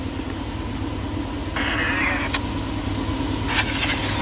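Steady low rumble of a train approaching from far down the line, a little louder about a second and a half in. Two short higher-pitched rushing sounds come over it, about a second and a half and three and a half seconds in.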